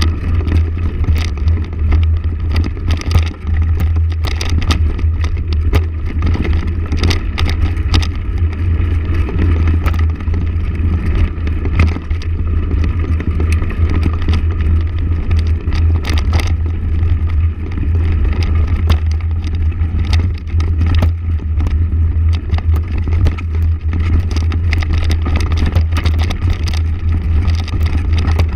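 Motorcycle engine running steadily under way, a constant low drone with rumble, broken by frequent short knocks and rattles.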